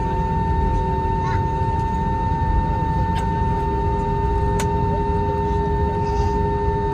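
Airbus A321's IAE V2500 jet engine running at taxi power during a single-engine taxi: a steady low rumble with a constant whine, and a few faint clicks.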